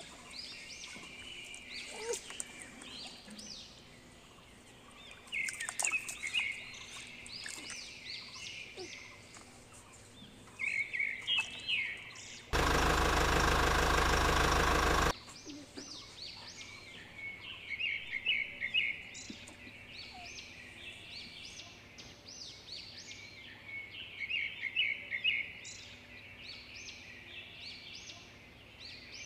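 Birds chirping repeatedly, in short clustered calls. Midway, a loud, steady noise cuts in for about two and a half seconds and stops abruptly.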